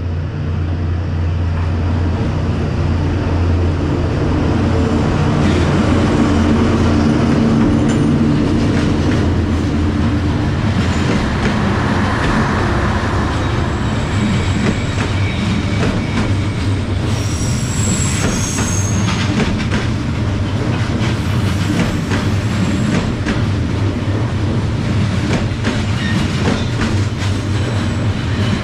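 Diesel train passing at close range: a low locomotive engine drone at first, then the cars rumbling and clacking along the rails, with a brief high wheel squeal about two-thirds of the way through.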